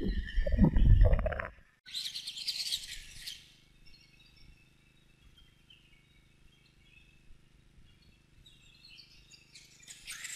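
Small birds chirping and singing, over a faint steady low hum. A loud low rumble fills the first second and a half and cuts off abruptly. A harsh hissing burst follows about two seconds in, and another rising hiss comes near the end.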